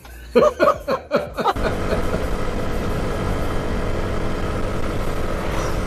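Road vehicle engine and road noise from dashcam footage, coming in suddenly about a second and a half in and then running loud and steady.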